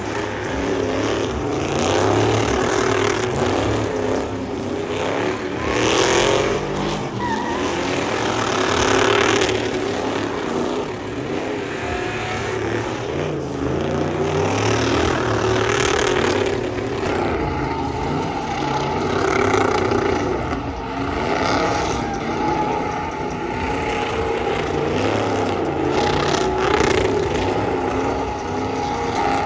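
Pickup truck engines running and revving loudly, with a little tire squeal, at a truck burnout and racing event.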